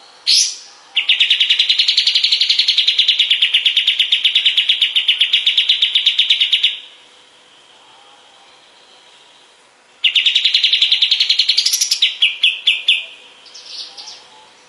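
Kapas tembak bird singing: a short call, then a long, fast, evenly pulsed trill lasting several seconds. After a pause a second trill follows and breaks up into a few separate notes near the end.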